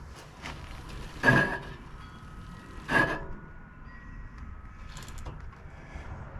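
E-bike rear disc brake rotor scraping against the brake caliper as the rear wheel turns: two short, loud metallic scrapes with a ringing tone, about a second and a half apart, and faint ringing and light knocks in between. The rotor sits too far up into the caliper.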